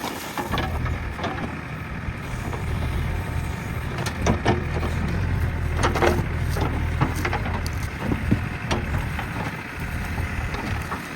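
JCB backhoe loader's diesel engine running steadily under load, with scattered sharp cracks of brush and branches breaking.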